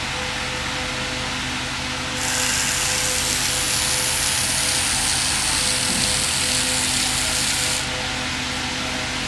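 A power tool running for about five and a half seconds, starting about two seconds in and stopping suddenly near the end, over a steady background hum.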